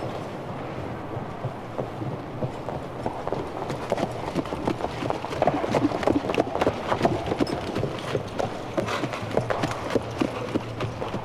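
Horse's hooves clip-clopping on a hard surface, a quick uneven run of sharp clops that grows louder about halfway through.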